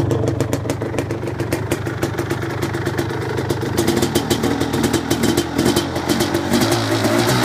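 Suzuki LT250R's two-stroke single-cylinder engine idling steadily once warmed up from a cold start; it runs with an air filter that badly needs cleaning.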